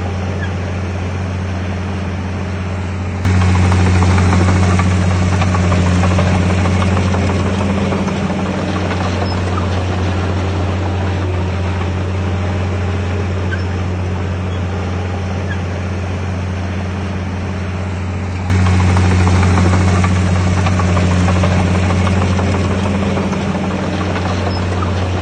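Komatsu D51PX bulldozer's diesel engine running steadily at an even pitch. Twice it turns suddenly louder and then eases back over a few seconds.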